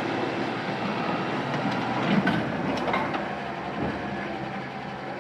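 Heavy vehicle running steadily, with a few short clanks about two and three seconds in.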